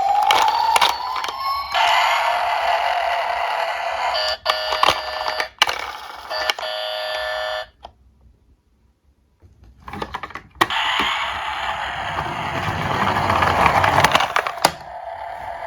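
Toy police car sounds: electronic siren and alarm-like tones with sharp clicks and clatter, cutting out for about two seconds midway, then a dense rattling rush with more clicks.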